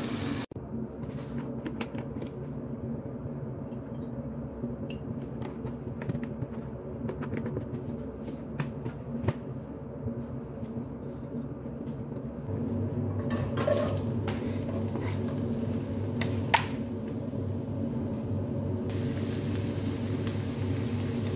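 Eggplant and potato pieces frying in hot oil, cut off about half a second in. Then a steady low hum with scattered light clicks around a pot on a gas burner. Near the end, chopped onions sizzle in oil in the pot.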